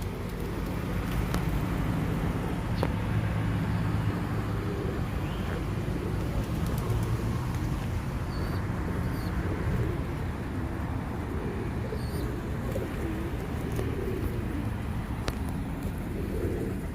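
Pigeons cooing among a flock gathered at scattered feed, over a steady low rumble.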